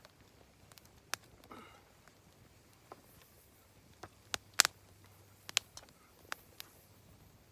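Campfire wood crackling: scattered, irregular sharp pops over a quiet background, the loudest a little past halfway.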